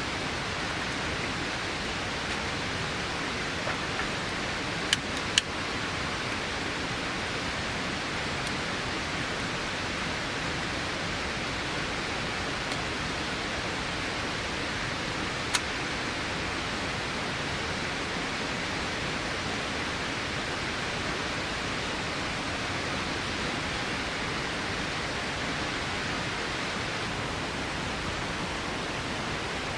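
Steady hiss of heavy rain, with a few short sharp clicks: two about five seconds in and one about fifteen seconds in.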